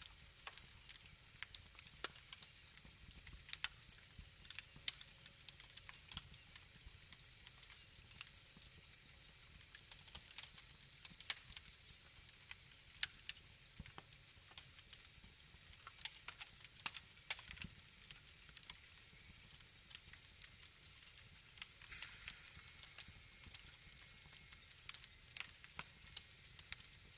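Wood fire crackling: irregular sharp pops and snaps over a soft low rumble, with a short hiss about three-quarters of the way through.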